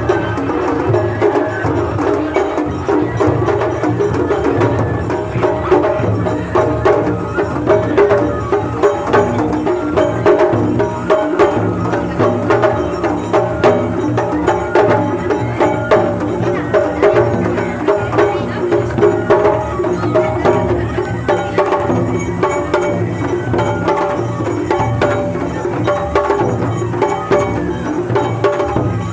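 Japanese festival hayashi played live: drums and hand percussion struck in a continuous, lively rhythm under held melodic notes.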